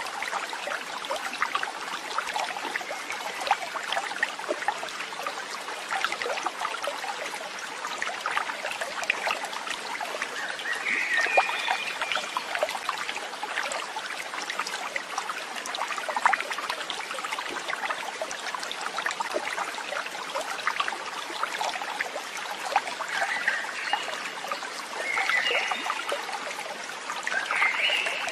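Water trickling and babbling in a stream, a steady, crackly flow, with a few short high calls from an animal, most likely birds or frogs, about a third of the way in and again near the end.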